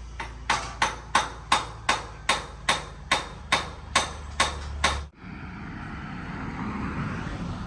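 About a dozen sharp, evenly spaced knocks, roughly two and a half a second, like steady hammering, that stop abruptly about five seconds in; a steady rushing machine-like noise follows.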